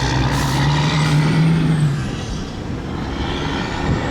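Diesel freight locomotives' engines running under load, a strong steady drone that eases off after about two seconds. A faint thin high squeal rises and falls near the end.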